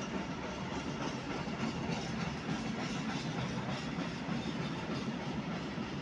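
Freight train of open wagons rolling past, making a steady noise of wheels running on the rails.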